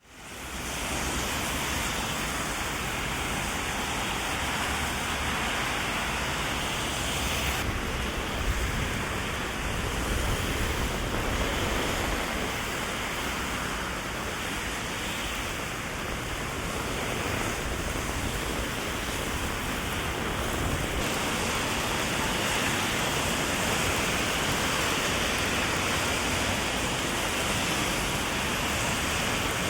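Heavy rain falling steadily, heard from under an umbrella, fading in over the first second.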